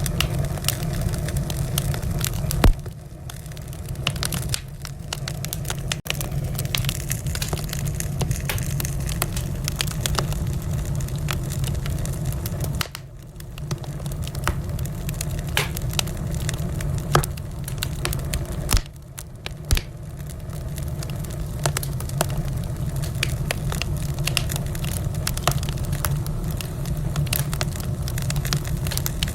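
Wood fire burning in a fireplace, crackling with many small pops over a steady low rumble, and a few sharper, louder pops now and then.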